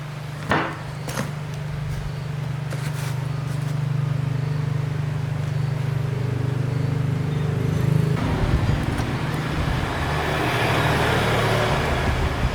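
An engine running steadily with an even hum, with two sharp knocks in the first second or so. About eight seconds in it turns louder and rougher.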